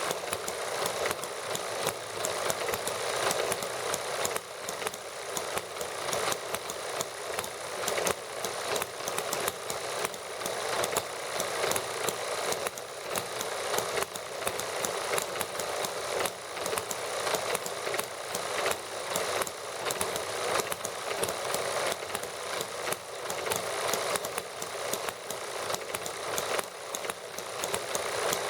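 Small model gasoline engines running steadily, a quick even stream of firing strokes with a light, high-pitched mechanical clatter.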